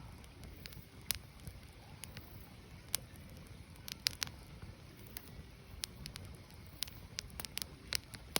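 Firewood burning, crackling with sharp irregular pops and snaps over a low steady rumble, with a quick cluster of pops about four seconds in.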